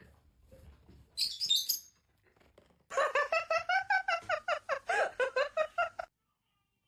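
A parrot calling: a short burst of high chirps about a second in, then about three seconds of rapid chattering calls, several a second, that cut off abruptly.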